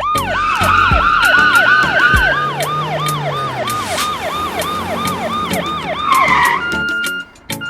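Cartoon emergency siren in a fast yelp, its pitch sweeping about four times a second, cutting off about six and a half seconds in. Short repeated electronic beeps follow near the end.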